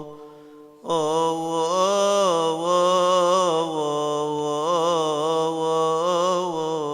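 A male deacon's solo voice chanting a Coptic Orthodox hymn in long, melismatic held notes, the pitch wavering through ornaments. There is a brief break for breath just under a second in.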